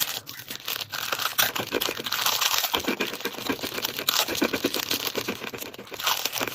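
Dense, rapid crackling and clicking of crunchy snack food being handled and crushed.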